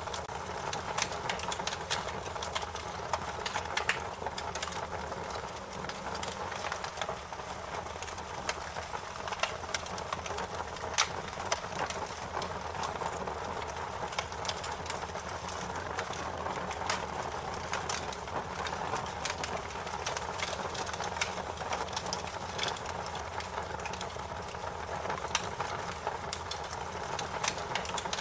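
Wood fire crackling: a steady rushing bed of burning with frequent sharp, irregular pops and snaps.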